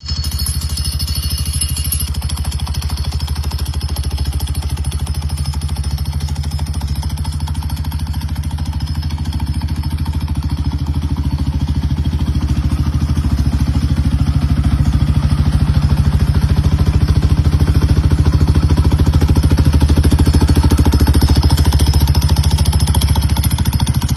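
Yamaha Y15ZR's single-cylinder four-stroke engine running steadily with a fast, even firing pulse, tuned for the 'timing kuda' sound. It gets somewhat louder about halfway through.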